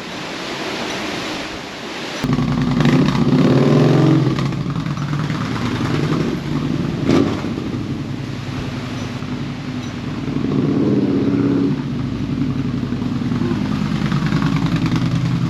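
2014 Yamaha Bolt's air-cooled V-twin starting on the button about two seconds in, revving briefly and settling to a steady run, with a sharp click about seven seconds in and a second brief rise in revs near eleven seconds. It starts at first push with no trouble.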